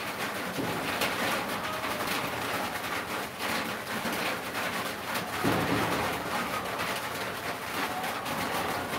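Birds calling in the background over a steady rustling hiss.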